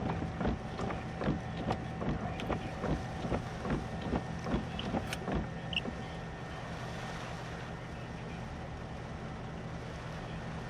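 Inside a vehicle's cabin, the engine running with a steady hum. A regular clicking, about two and a half clicks a second, stops about five and a half seconds in.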